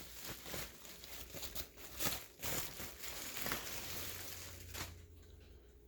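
Irregular rustling and crinkling handling noises with scattered light knocks.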